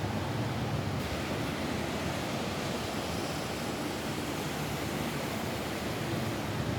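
Steady rain falling on a roof, an even hiss with no breaks or single drops standing out.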